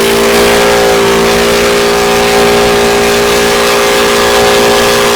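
A car engine revved and held at constant high revs, very loud and steady.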